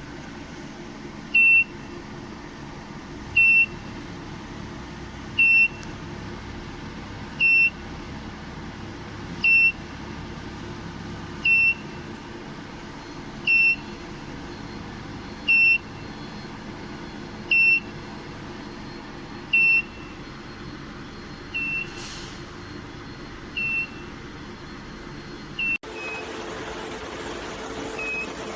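An electronic alarm beeper gives a short, high, single-tone beep about every two seconds over a steady machine hum. The beeps grow fainter near the end.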